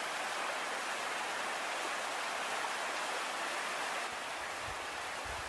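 Steady rush of flowing water, an even hiss that eases slightly near the end.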